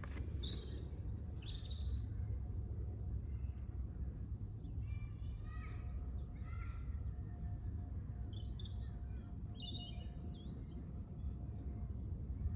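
Birds chirping and singing in short phrases, a brief run about five seconds in and a busier burst about nine seconds in, over a steady low background rumble.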